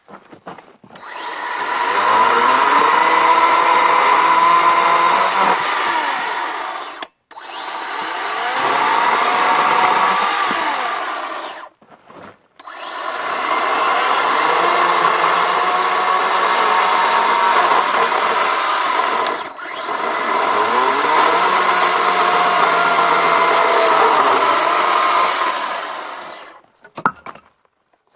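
Brücke 36-volt battery chainsaw cutting spruce logs in four long runs with short stops between, its pitch dipping and recovering as the chain bites. The last run ends near the end, shortly before the battery is found to be completely flat.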